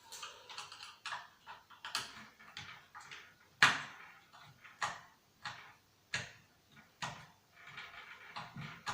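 Clicks, knocks and rustling of plastic and metal parts and tools being handled while an old CRT TV/DVD combo is taken apart, about a dozen sharp knocks, the loudest about three and a half seconds in.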